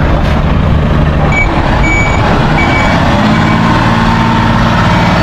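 A heavy truck's engine running loudly, with a reversing alarm beeping three times in the first half. About three seconds in, the engine note steps up.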